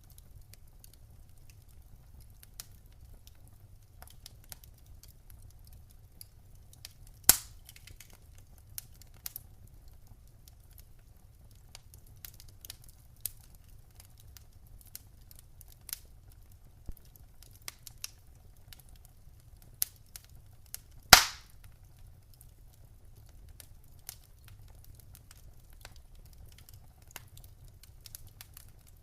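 Wood fire crackling in a fireplace: scattered small snaps over a low steady rumble, with two loud pops, one about a quarter of the way in and a louder one about two-thirds through.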